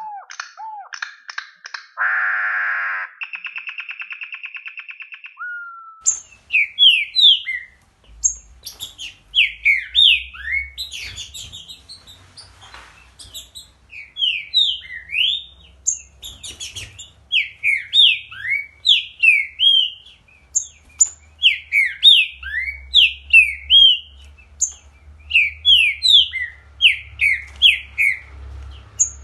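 A songbird singing a long run of quick slurred whistled notes, several a second, each sweeping up or down in pitch. The first few seconds hold a different set of calls, including a rapidly pulsed tone, before the song begins.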